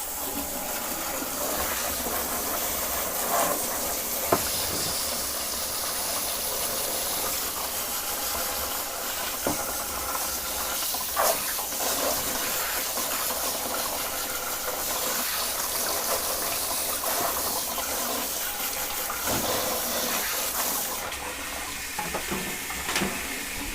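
Handheld shower hose spraying water onto a vintage sewing machine in a steady hiss, with a few light knocks from the machine or hose handling. The spray eases off near the end.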